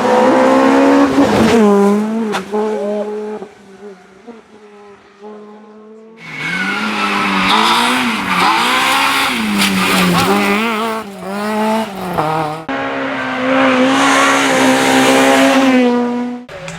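Rally cars driven hard past the microphone on a stage, engines revving up and down in quick swings through gear changes. The first car fades away about three seconds in; louder cars then take over, the sound switching abruptly around six and again around thirteen seconds in.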